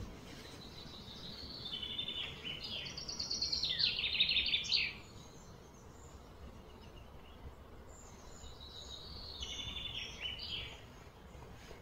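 Songbird singing two fast, trilled phrases whose notes step up and down in pitch: the first is about four seconds long, swells and then cuts off sharply, and the second, shorter one comes a few seconds later. A faint outdoor background hiss runs underneath.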